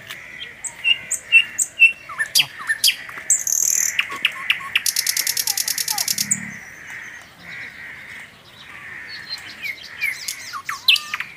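Small birds chirping and calling, with quick sharp chirps in the first few seconds and again near the end. About five seconds in, a fast, evenly pulsing high trill lasts a second and a half.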